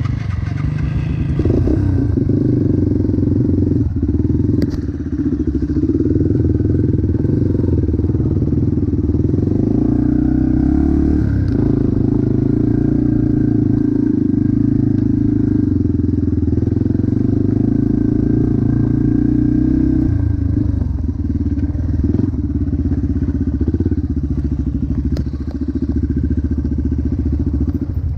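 Motocross bike engine running loud and held on the throttle, with its note shifting about a third of the way in and again about two-thirds of the way through.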